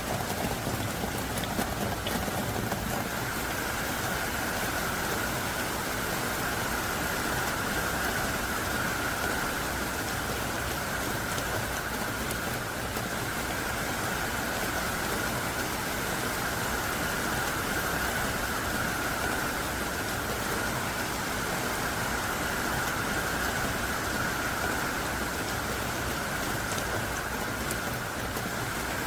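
Heavy rain pouring down steadily in an even, continuous hiss of dense drops.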